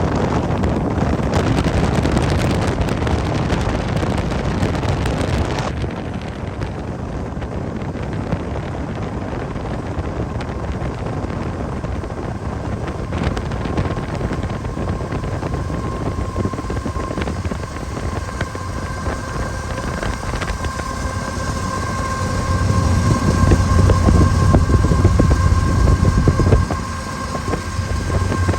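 Wind buffeting the microphone over a vehicle's steady rumble. Faint steady tones come in during the second half, and a heavy low rumble swells about 22 seconds in, then cuts off suddenly near the end.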